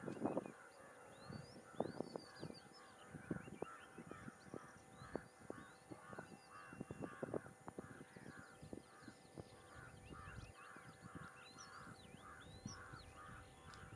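Birds calling: one bird repeats a short call about twice a second while others add higher chirps and whistles, over a few faint low knocks.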